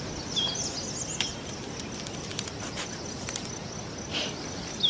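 Outdoor ambience of a steady, high-pitched insect trill, with a couple of short bird chirps and a few soft clicks.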